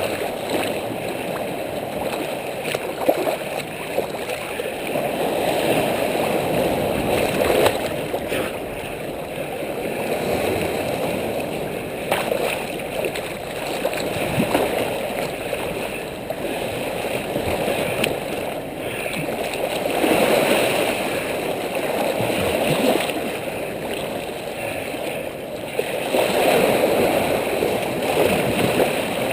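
Ocean surf washing over and around rocks, a muffled wash of water that swells and ebbs every several seconds. A few sharp knocks come through it.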